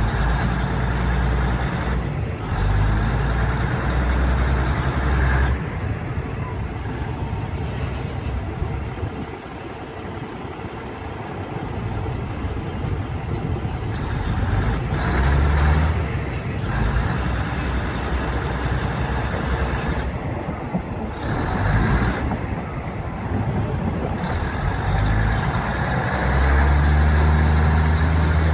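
Diesel train running: a low steady engine hum that comes and goes, growing louder near the end, over a rushing rail and air noise.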